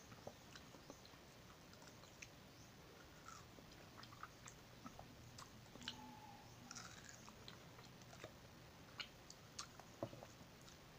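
Faint, soft wet chewing and biting of ripe mango flesh, with scattered small mouth clicks and lip smacks.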